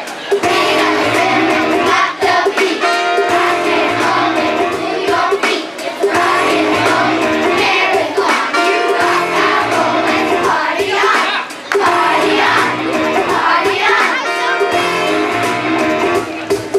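A children's chorus singing a song with instrumental accompaniment.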